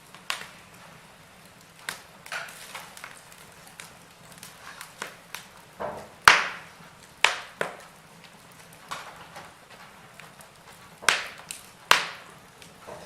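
Logs burning in a fireplace, crackling with irregular sharp pops over a faint steady hiss. The loudest pop comes about six seconds in, with two more strong pops near the end.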